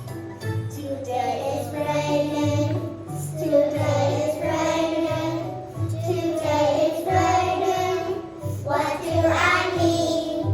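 Children's song: a voice singing phrases over a backing track with a steady, repeating bass beat, the singing coming in about a second in.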